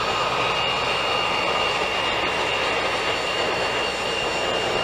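Four-engined BAe 146 airliner's Lycoming ALF502 turbofans running, a steady jet roar with a high steady whine over it.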